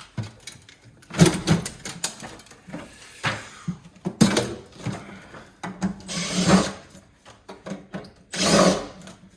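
Handheld power drill running in about five short bursts, each half a second to a second long, with pauses between them.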